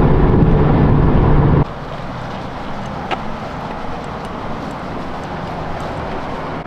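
Car engine running at a steady pitch, then cutting off abruptly about one and a half seconds in, leaving a quieter low rumble. A single sharp click about three seconds in.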